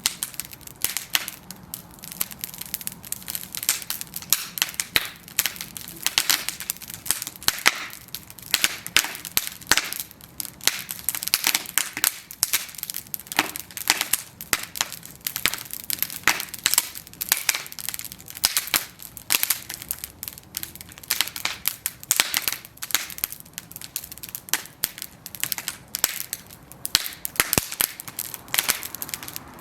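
Bonfire of wooden planks burning, the wood crackling and popping in rapid, irregular snaps over a soft hiss of flame.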